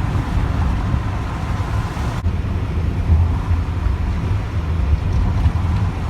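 A cargo van driving at road speed, heard from inside the cab: a steady low rumble of engine and road noise with a hiss of tyres and wind above it.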